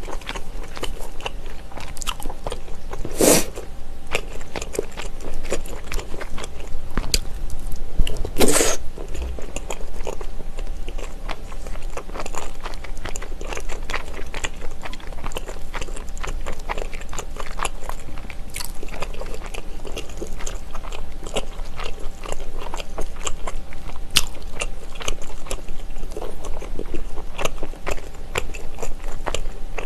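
Close-miked chewing of soft, chewy rice cakes and fish cake in a thick spicy sauce: wet mouth sounds and many small clicks, with metal chopsticks tapping the bowl. Two louder short noises come about three and eight seconds in.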